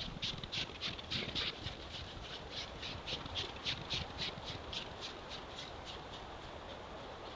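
Rhythmic crunching steps, about three to four a second, growing fainter and stopping about five seconds in.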